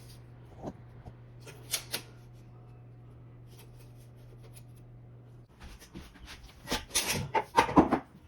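Handling noises of renovation work: a couple of sharp clicks and knocks, then a rapid cluster of louder knocks and clacks near the end, over a low steady hum that stops about two-thirds of the way through.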